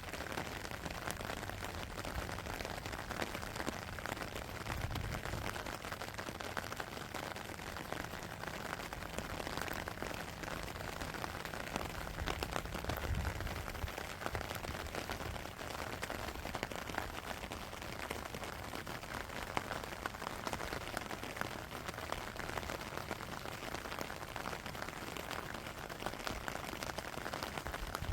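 Steady rain with dense, close patter of drops. A low steady hum sits under it through the first half and fades out just before the middle.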